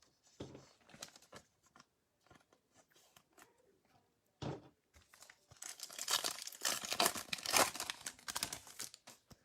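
A trading-card pack wrapper being torn open and crinkled for about three and a half seconds near the end, after a few light clicks and a single thump about halfway through.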